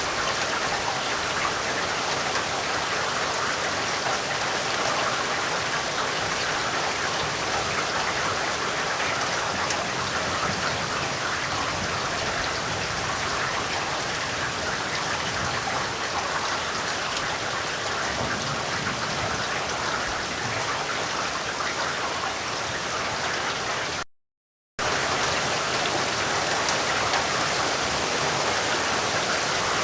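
Steady rain falling, an even, dense patter with no letup. About 24 seconds in, the sound cuts out completely for under a second, then resumes at the same level.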